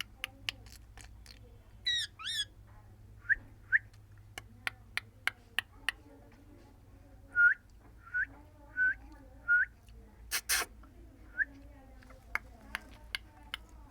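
A parrot giving short, hooked whistles, about seven of them in small runs, with a warbling glide about two seconds in and a short harsh squawk about ten seconds in. Sharp clicks are scattered throughout.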